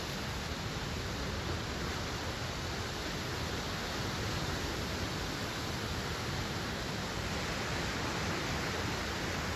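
Steady rushing wash of ocean surf breaking along a beach, an even noise with no distinct waves standing out.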